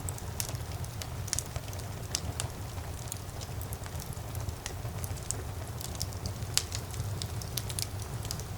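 Fire in a fireplace crackling: frequent, irregular sharp pops and snaps over a steady low rumble of the flames, with one louder pop a little past halfway.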